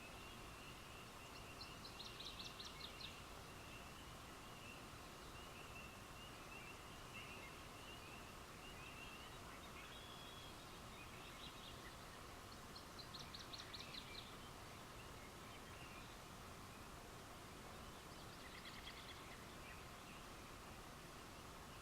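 Faint outdoor night ambience: a short, fast, high-pitched trill of a small animal call, heard three times, over a steady faint high drone and hiss.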